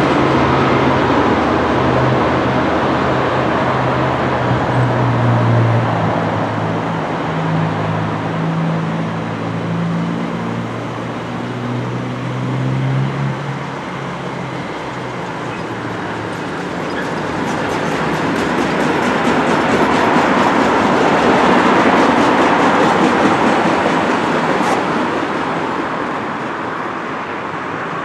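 A train passing on the line: a steady engine drone over the rumble of wheels on rail, the drone fading out about halfway through while the wheel-and-rail noise swells again and then eases off.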